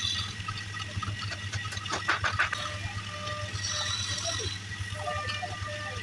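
Wood lathe motor running steadily, with a quick cluster of knocks about two seconds in.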